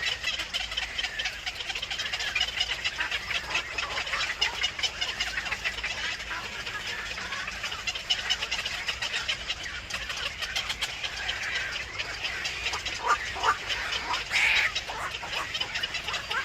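Birds chirping rapidly and continuously, with one short, louder call near the end.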